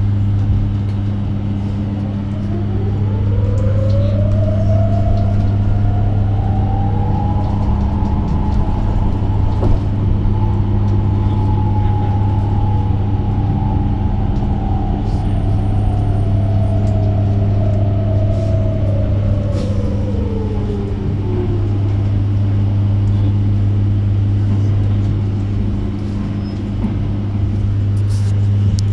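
Electric bus's traction motor whining. The pitch rises as the bus speeds up, holds while it cruises, then falls as it slows, over a steady low hum.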